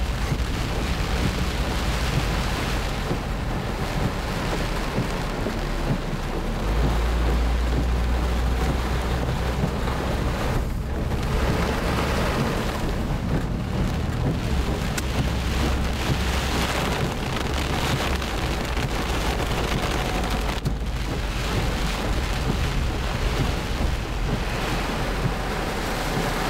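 Heavy tropical-storm rain beating on a moving car, over a steady low rumble of wind and the car driving; the rain noise thins briefly twice.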